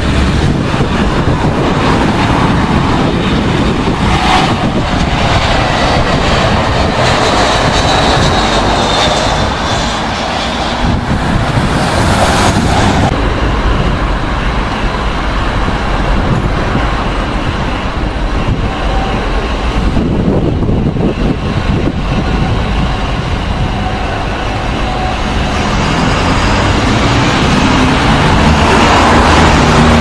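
Jet airliner passing close, its engine noise sweeping with a high whine that glides in pitch, over wind rumbling on the microphone. It grows louder again near the end as another aircraft approaches.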